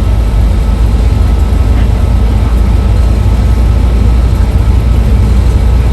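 Steady low drone of a moving bus heard from inside the cabin: engine and road noise.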